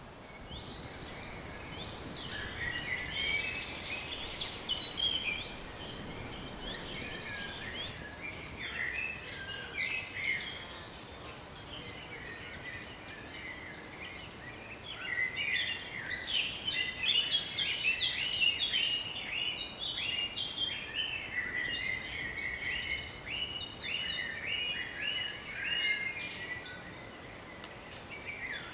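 Songbirds chirping and singing, a dense chorus of many short, quick notes that grows busier about halfway through, over a faint low wind rumble.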